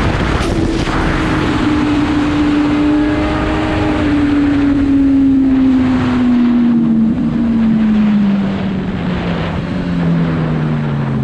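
Motorcycle engine heard over heavy wind buffeting on the microphone, its pitch falling slowly and steadily as the bike rolls off from speed and decelerates.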